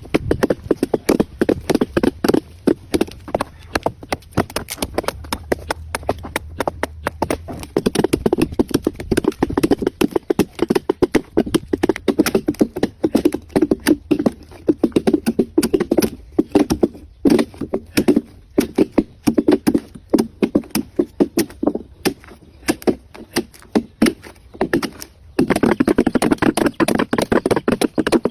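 Hand tools knocking on palm-trunk wood in quick repeated strikes, several a second, with a few brief pauses, as the trunk is worked into a boat.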